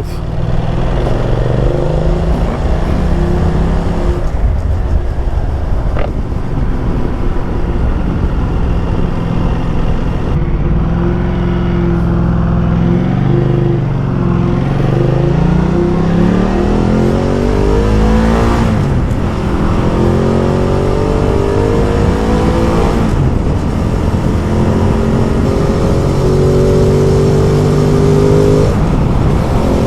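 Ducati Multistrada motorcycle engine running under way, with wind and road noise. The revs climb steadily, drop sharply at a gear change about 18 seconds in, then climb again and hold higher toward the end.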